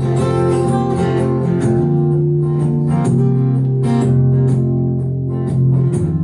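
Acoustic guitar playing a song's accompaniment live, plucked chords in a steady rhythm over sustained low notes.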